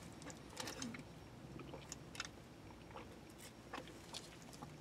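A person chewing food quietly, with a few faint scattered clicks and smacks of the mouth.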